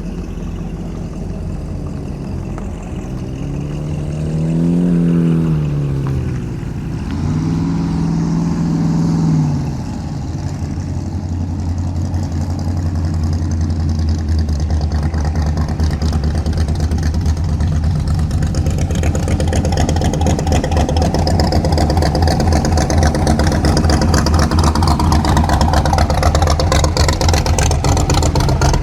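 Car engines as cars drive slowly past, with two revs that rise and fall between about four and nine seconds in. After that comes a steady low engine sound that grows louder toward the end.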